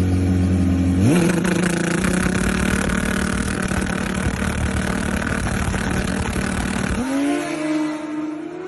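Turbocharged Suzuki 1000 motorcycle engine: a steady running note, then about a second in it revs up sharply into a loud full-throttle run that lasts about six seconds and eases off near the end.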